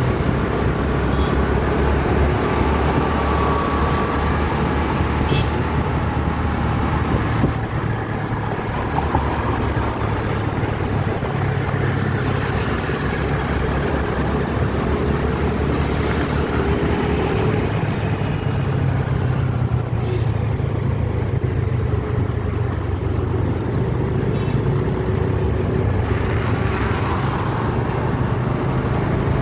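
Steady road traffic with vehicle engines running.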